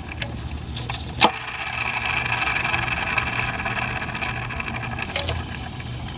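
Loose belt tensioner pulley spun by hand with the serpentine belt off, giving a steady rough whir that fades near the end, with a click about a second in. The whir comes from the pulley's bad bearing, which lets it wiggle back and forth.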